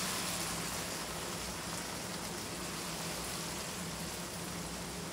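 Okra curry still sizzling in the hot wok just after the gas flame is turned off, a steady frying hiss as it is scooped out with a silicone spatula.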